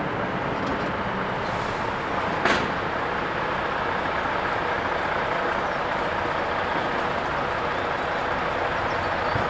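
Passenger train passing the level crossing at speed: a steady rumble of wheels on rail, with one brief sharp squeal about two and a half seconds in.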